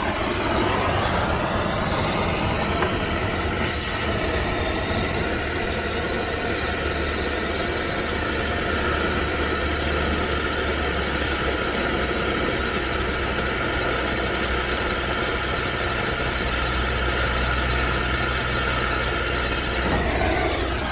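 Brazing torch flame running steadily on a heat pump's copper line joint, a continuous roaring hiss with a low rumble.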